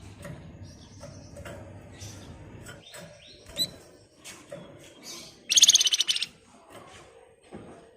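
A flamboyan songbird calling in scattered short, high chirps. About five and a half seconds in, it breaks into a loud, rapid, rattling trill lasting under a second: the dense 'ngebren' burst that bird-keepers prize.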